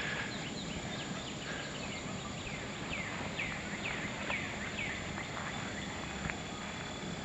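A bird singing a run of short falling notes, about two a second, through the middle of the clip, over steady outdoor background noise.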